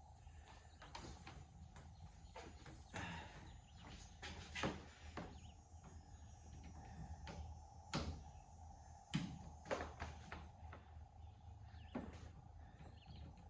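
Scattered light knocks and bumps, about a dozen over several seconds, over a faint steady hum.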